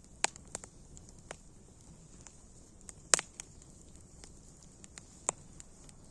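Wood fire crackling, with scattered small pops and three sharper, louder pops over a faint steady hiss.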